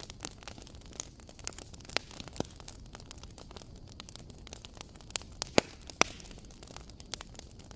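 Wood fire crackling in a fireplace: irregular sharp pops and snaps over a low, steady rumble of burning, with two louder pops a little after the middle.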